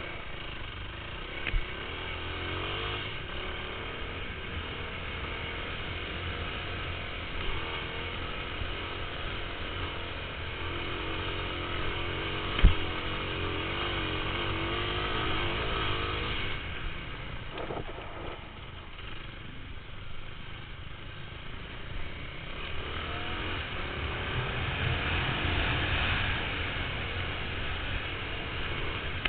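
Motocross bike engine running and revving, its pitch rising and falling over a steady rumble. A single sharp knock sounds about halfway through.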